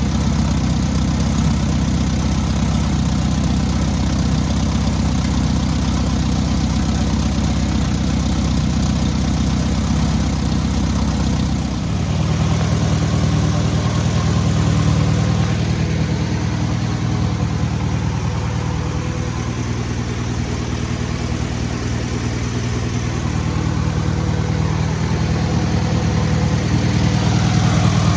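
Freshly rebuilt air-cooled VW 1600cc flat-four engine running steadily during its break-in, its note shifting abruptly about twelve seconds in and then holding.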